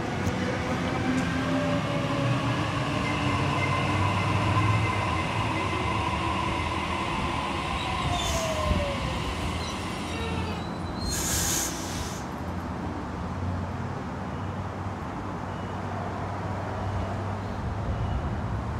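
Sydney Trains electric passenger train moving slowly past at the platform: a rumble with gliding, whining tones that change pitch, and some wheel squeal. Two short hisses come about eight and eleven seconds in.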